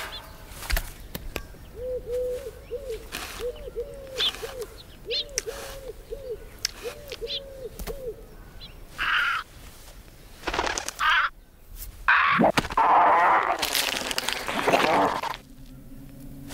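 A film's sound effects: a run of about a dozen short, evenly spaced calls, two or so a second, over scattered clicks and cracks, then a few short bursts of noise and a loud, rough rustling noise for about three seconds near the end.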